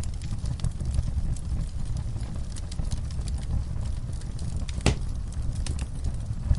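Wood fire burning in a fireplace: a steady low rumble of flames with scattered small crackles from the logs, and one sharper pop near the end.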